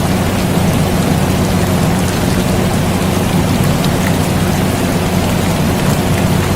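Steady rain with a constant low air conditioner hum beneath it, unchanging throughout, with faint scattered drop ticks.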